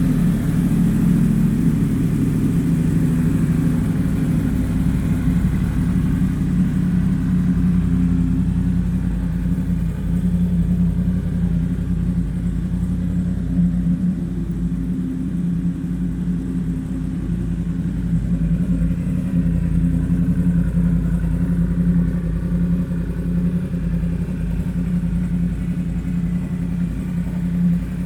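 2016 Yamaha YZF-R1's 998cc crossplane inline-four idling steadily through a Graves aftermarket exhaust.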